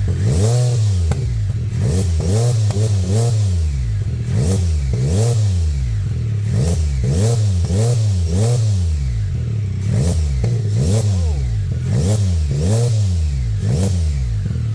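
Can-Am Spyder F3's Rotax 1330 inline-three engine revved through its exhaust in repeated quick throttle blips, about one a second, the pitch rising and falling with each.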